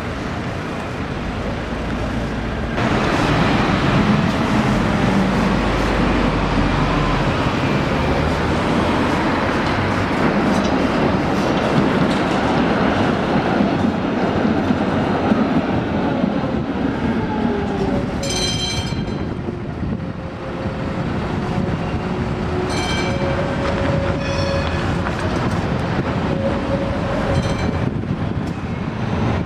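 Street tram running on rails: a steady rumble of wheels on track that grows louder about three seconds in. A whine falls in pitch in the second half, and brief high-pitched squeals of wheels on rail come several times near the end.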